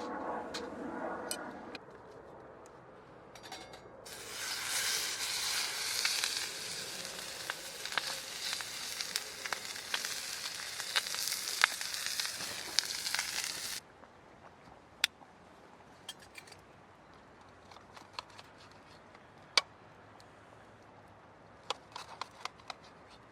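Food sizzling as it fries over a campfire, a loud steady hiss with sharp pops that starts a few seconds in and cuts off suddenly. Afterwards only faint scattered crackles of the fire.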